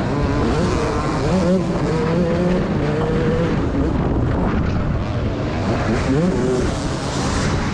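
Motocross bike engines revving hard under race load, their pitch rising and falling repeatedly as the bikes accelerate and shift, over a steady low rumble.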